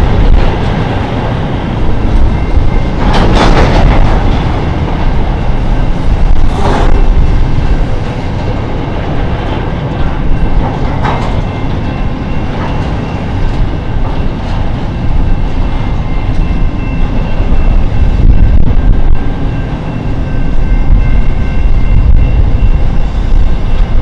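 Container wagons of a long freight train rolling past: a steady heavy rumble of wheels on the rails, with two brief sharper noises about three and seven seconds in.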